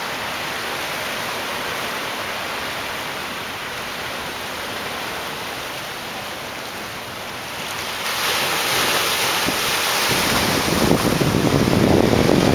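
Ocean surf washing against shoreline rocks, a steady rush that swells louder in the last few seconds, with wind buffeting the microphone.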